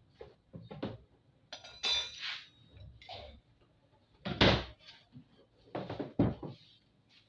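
Clinks and knocks of metal tools and parts being handled while a washing machine is taken apart. One clink about two seconds in rings briefly, and the loudest knock comes a little past halfway.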